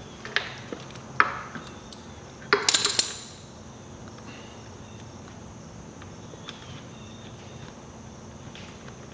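Metal parts and tools clinking as the rear exhaust section of a dirt bike is handled and fitted: a few sharp clinks, a brief loud metallic clatter about two and a half seconds in, then only faint ticks.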